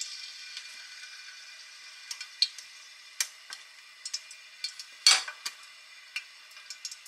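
A sweet potato chunk frying in a pan of oil: a faint sizzle with scattered sharp pops and crackles, and one louder crackle about five seconds in.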